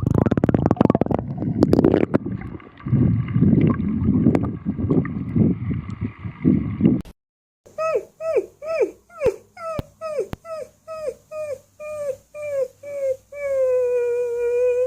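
A dog crying in short yelps, about two a second, each dropping in pitch, then one long held howl near the end. The first half is several seconds of rough, noisy sound, cut off by a brief gap before the cries begin.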